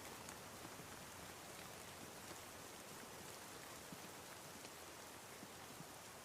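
Faint, steady rain: an even hiss with scattered soft drop ticks.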